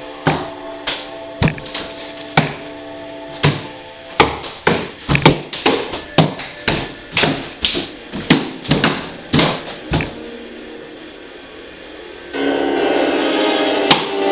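Irregular sharp hits, about twenty of them, struck loosely over a held note at a band rehearsal. After a short lull, the full band comes in with drums and music about twelve seconds in.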